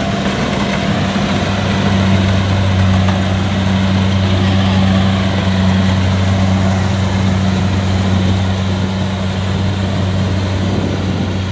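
Kubota DC70 combine harvester running steadily, its diesel engine giving a constant low drone over the noise of the machine working.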